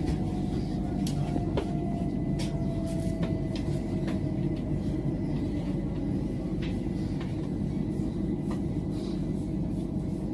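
Running noise heard from inside a moving passenger train: a steady low rumble with scattered clicks, and a faint whine that slides slowly down in pitch over the first few seconds.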